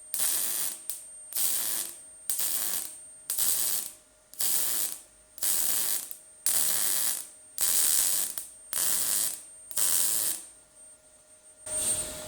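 MIG welder with 0.6 mm wire laying a row of short stitch welds along the steel edge of a car tailgate: about ten crackling bursts of arc, each under a second, coming roughly once a second. Short tacks rather than one continuous bead keep the panel from distorting or blowing through.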